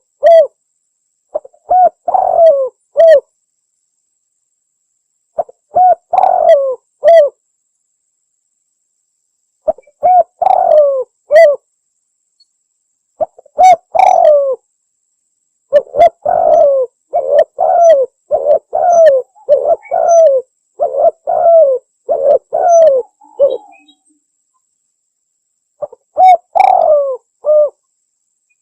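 Spotted doves cooing, from a recording played as a hunting lure: short phrases of a few coos recur about every four seconds. A longer run of rapid repeated coos fills the middle, and there is dead silence between phrases.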